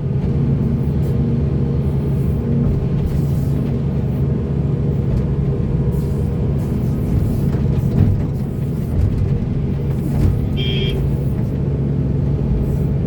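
Heavy diesel earthmoving machinery running steadily with a deep, constant drone. A brief high tone sounds once near the end.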